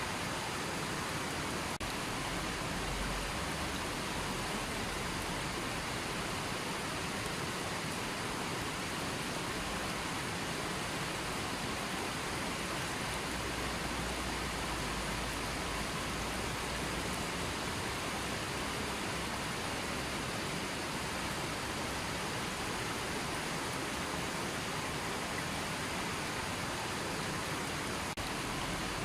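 River water flowing in a steady, even rush with no breaks.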